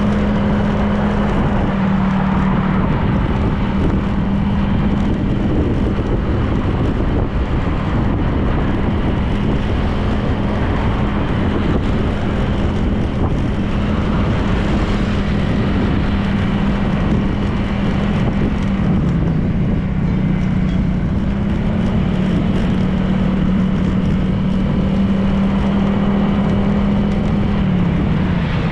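Honda PCX 160 scooter's single-cylinder engine running steadily at riding speed, with wind and road noise. The engine note drops briefly about two-thirds of the way through, picks up again, and falls off near the end.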